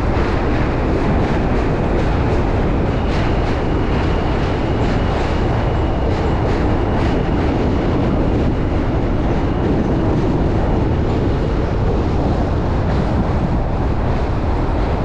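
Strong wind buffeting the microphone of a chest-mounted camera on a moving bicycle: a loud, steady rumble with light irregular ticking.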